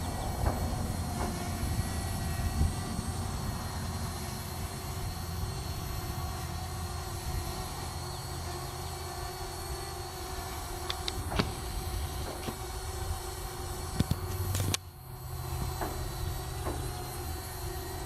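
Parrot Bebop quadcopter's propellers humming steadily in flight, a held multi-toned whine over a low rumble, with a few sharp clicks and a brief dip in level about three-quarters of the way through.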